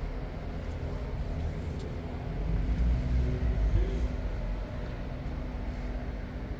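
Sports car engine running low amid street traffic, swelling louder for about a second and a half around three seconds in.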